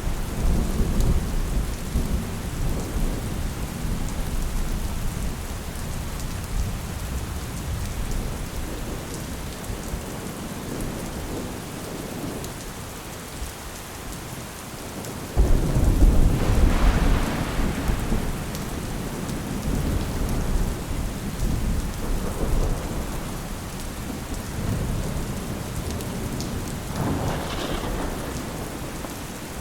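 Steady rain falling, with rolling thunder. A loud thunder rumble starts suddenly about halfway through and dies away over several seconds.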